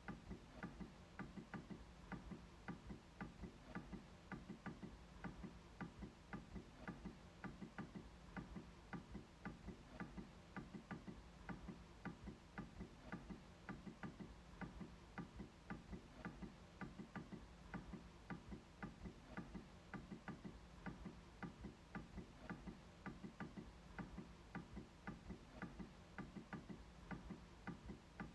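MacBook trackpad being clicked in a steady, even rhythm, about two to three faint clicks a second.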